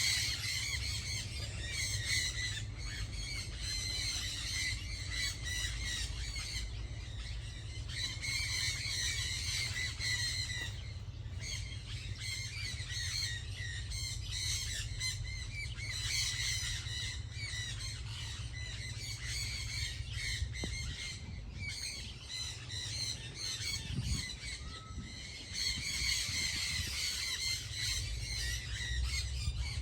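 Many birds calling at once in a dense, chattering chorus that swells and eases in bouts, over a steady low rumble.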